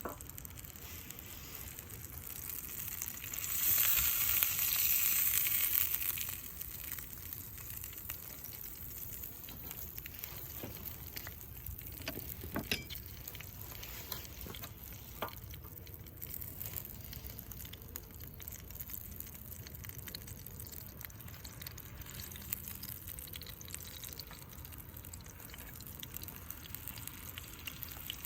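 Hamburger steaks sizzling in a skillet over a campfire: a steady frying hiss that swells much louder for about two seconds early on, with a few scattered sharp clicks later.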